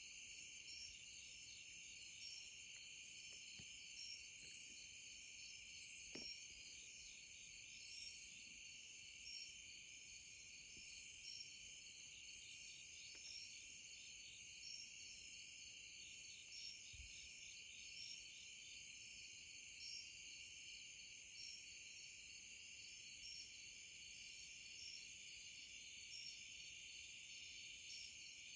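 A faint, steady chorus of crickets and other night insects, trilling and pulsing without a break.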